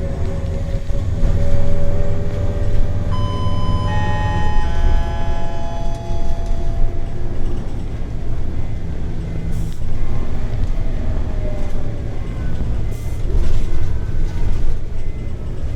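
Interior of a Scania L94UB CNG bus under way: a steady low engine and drivetrain rumble with a whine. A cluster of higher steady whining tones comes in about three seconds in and fades out a few seconds later.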